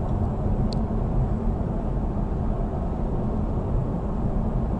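Steady road noise of a car driving at highway speed, a low rumble of tyres and engine. One short click sounds just under a second in.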